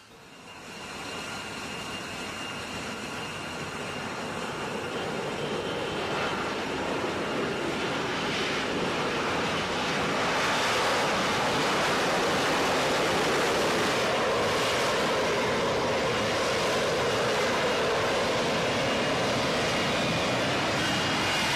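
F-35B Lightning II's F135 jet engine roaring with a faint high whine, growing louder over about ten seconds and then holding steady and loud.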